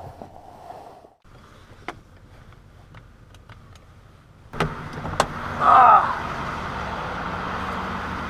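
Inside a vehicle: a few light clicks, then about halfway through a sharper pair of clicks and a short whir as a power window goes down. After that the engine and outside traffic noise run steadily and louder.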